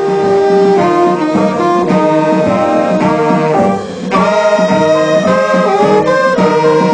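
An instrumental band's horn section, saxophones among them, playing a melody together, with a brief break about four seconds in.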